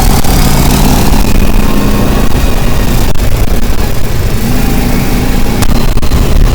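A motor vehicle's engine running, with a low hum under loud, steady wind or road noise.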